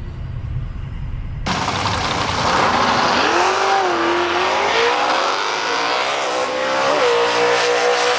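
A low vehicle rumble, then about a second and a half in a sudden cut to a car engine at high revs at the drag strip over a loud hiss, its pitch climbing, wavering and dipping briefly near the end.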